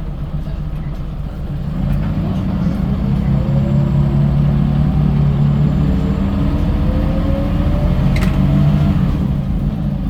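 Scania L94UB bus's diesel engine accelerating, its note climbing in pitch twice in a row, as after a gear change, with a short click near the end.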